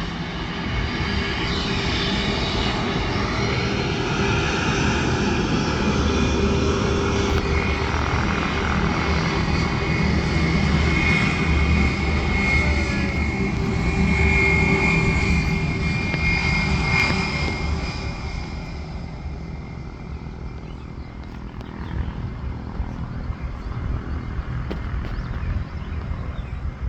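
Airplane engines passing, a loud steady noise with a high whine that swells to a peak and then fades away over the last third.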